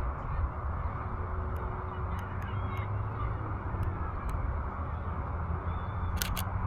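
Steady low wind rumble with faint honking bird calls and a few sharp clicks, including a quick double click near the end.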